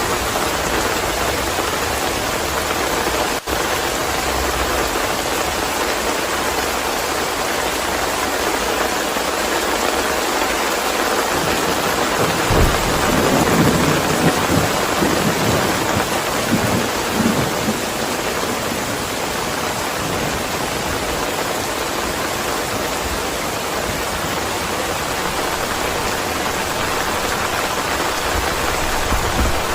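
Steady heavy rain, with a roll of thunder rumbling through the middle, loudest about halfway in.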